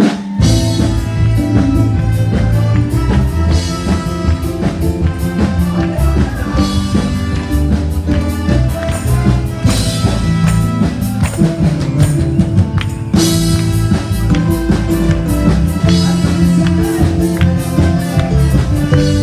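Band music with drum kit and bass guitar playing a steady, driving beat, starting suddenly.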